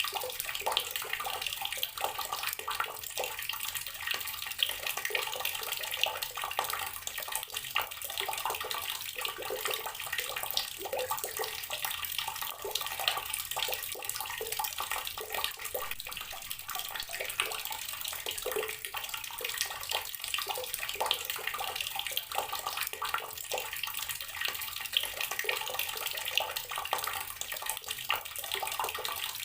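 Garden water tap running steadily, the stream splashing and spattering onto a hard surface below.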